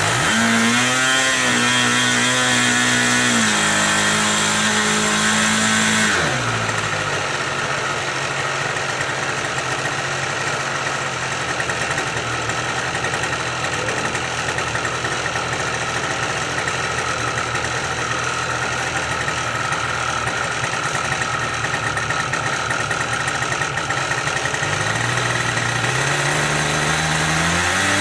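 OS 46 AX two-stroke nitro glow engine on a model airplane running at part throttle. About six seconds in it is throttled back to a steady lower speed, and near the end it is opened up again, the pitch rising.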